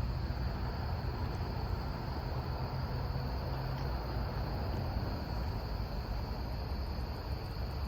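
Insects such as crickets trilling steadily over a low, steady rumble, with no distinct event.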